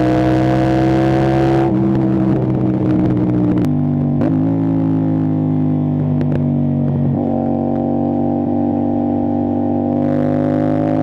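CFMoto 450SR-S parallel-twin engine through an Austin Racing aftermarket exhaust, ridden at speed. The steady exhaust note eases off about two seconds in, steps down in pitch twice at upshifts, then climbs again as the throttle opens near the end.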